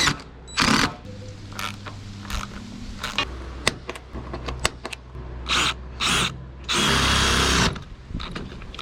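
Power drill boring holes through a pickup truck's sheet-metal roof, heard as a string of short, chopped bursts, with one longer, louder stretch of drilling near the end.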